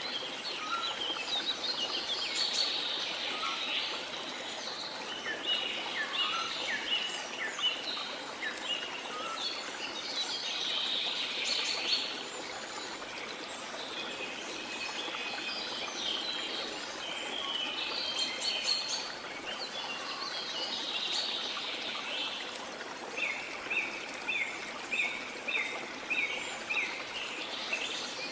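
Rainforest birds calling and singing over the steady sound of running water from a waterfall. Near the end one bird repeats a short chirp about twice a second.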